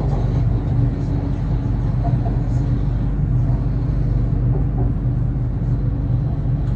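Steady low rumble and hum inside a BTS Skytrain EMU-B1 car as the train runs, with a faint steady tone above the rumble.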